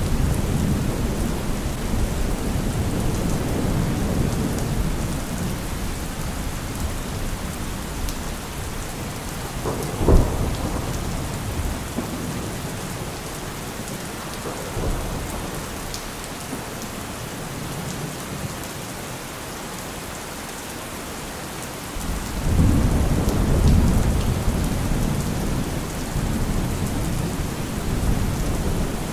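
Heavy rain falling steadily with thunder: a low rumble that fades away, a sharp thunderclap about a third of the way in, and another rumble rolling in near the end.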